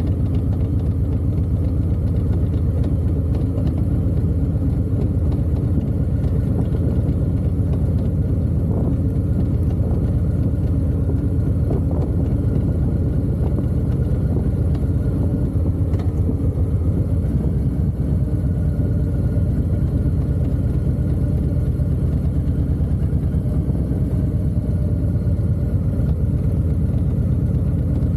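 Harley-Davidson V-twin motorcycle engine running steadily at a low, even speed, a constant low rumble with no revving.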